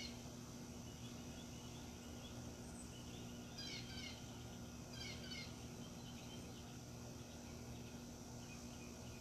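Faint birdsong: short bursts of quick chirps, two clear ones about four and five seconds in with softer chirping before them, over a steady low hum.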